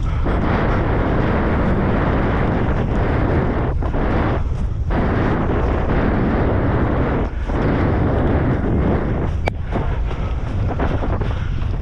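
Wind buffeting the microphone: a loud, steady rumbling rush with brief dips, and one sharp tick near the end.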